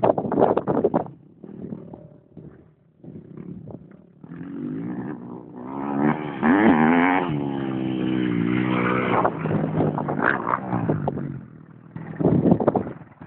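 Motocross bike engines revving as the bikes ride, their pitch rising and falling with the throttle. Loud at the start, quieter for a few seconds, then a bike revs hard and steadily for several seconds from about five seconds in, dropping away briefly near the end before picking up again.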